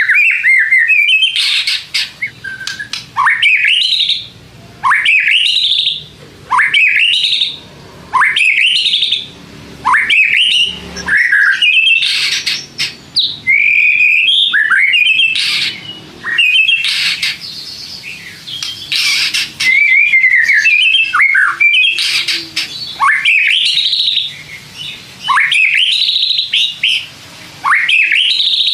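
White-rumped shama singing: a steady string of short whistled phrases, each rising steeply in pitch, repeated every one to two seconds and mixed with harsher chattering notes.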